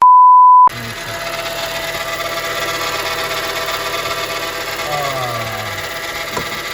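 A short censor bleep, then a car engine running with a steady high-pitched squeal from the belt-driven accessories. The squeal is still there with the alternator refitted, so the alternator bearings were not its cause.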